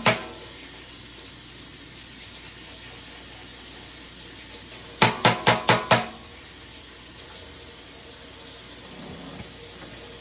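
Five quick, sharp knocks of a kitchen utensil against a container, about five seconds in, over a steady hiss of running water at a sink.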